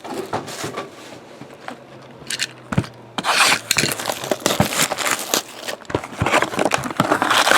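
Cardboard trading-card boxes scraping and rubbing against each other and the table as they are slid and stacked, with small knocks; the scraping grows louder about three seconds in.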